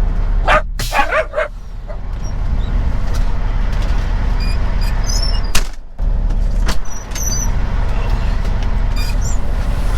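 Semi-truck diesel engine idling steadily, with a few short, sharp sounds about a second in and a single sharp click about five and a half seconds in.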